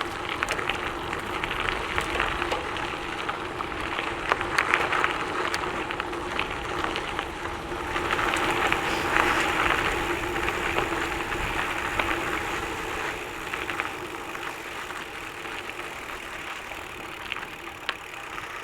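Trek Checkpoint gravel bike rolling along a gravel trail: tyres crunching over loose stones with many scattered ticks, a steady hum and wind rumble on the microphone. The noise swells for a few seconds near the middle and eases off towards the end.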